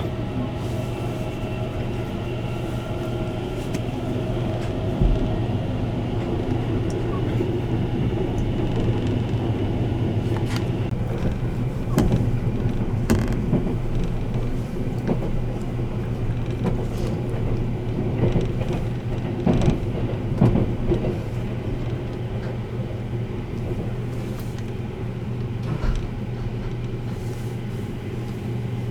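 Interior running noise of the Sunrise Express 285-series sleeper train: a steady low hum and rushing noise, with a sharp knock now and then.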